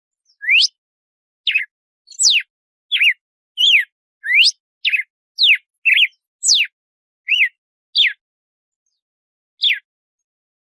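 Red-cowled cardinal (galo-de-campina) singing its 'açoite' song: a string of short, clear whistled notes, some sweeping up and some sweeping down, about one or two a second, stopping shortly before the end.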